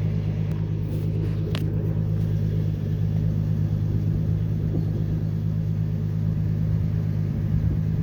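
2003 Ford Ranger's 4.0-litre V6 idling steadily with a deep rumble through a muffler-deleted exhaust that still has its catalytic converters. There is one brief click about one and a half seconds in.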